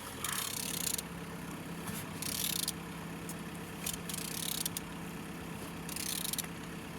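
A Z18XE four-cylinder engine being turned over by hand: four short scraping hisses come about every two seconds, over a steady low hum.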